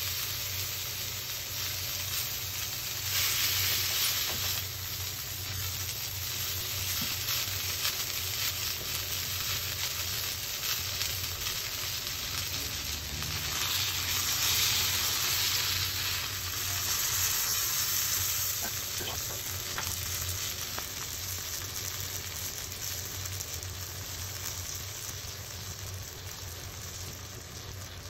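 Marinated chicken breast sizzling in oil in a frying pan. The sizzle swells louder at times, most strongly around the middle, when the breast is turned over with tongs.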